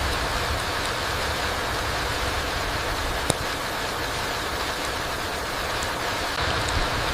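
Steady rain falling on a forest floor, an even hiss, with one sharp tick about three seconds in.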